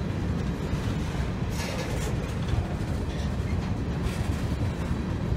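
Covered hopper cars of a freight train rolling past close by: a steady low rumble of steel wheels on the rails, with brief hissing surges about a second and a half in and again about four seconds in.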